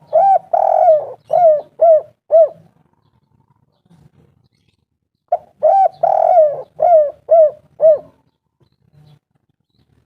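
Spotted dove (tekukur) cooing: two song phrases, each a rapid run of about six hollow coos with one longer note early in the run, the second phrase about five seconds after the first.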